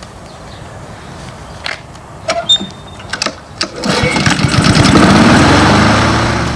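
Honda HRR2169VKA walk-behind mower's Honda GCV engine being started: a few sharp knocks, then about four seconds in the engine catches and runs, rising in pitch as it comes up to speed.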